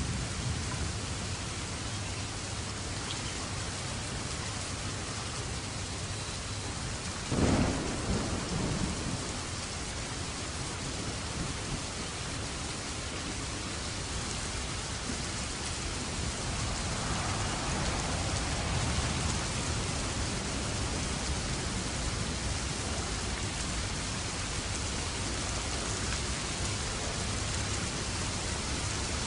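Steady rain falling, with a sudden clap of thunder about seven seconds in that rumbles on for a second or two, and a softer roll of thunder past the middle.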